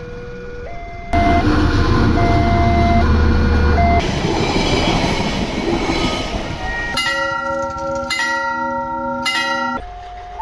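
Railway level-crossing warning chime alternating between two tones, then a train passing with a heavy low rumble. Near the end a train horn sounds a multi-tone chord in three blasts.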